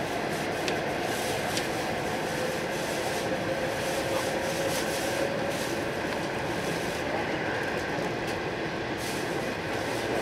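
Cabin noise on the upper deck of an E4 series Max Shinkansen motor car under way: a steady rumble of wheels and air with a faint whine that rises gently in pitch over the first few seconds, and a few light clicks.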